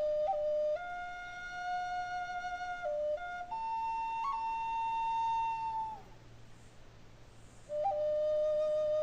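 Native flute playing a slow melody of long held notes, each opened with a quick grace-note flick. It climbs to a higher held note that tails off about six seconds in, and after a short pause the low note returns.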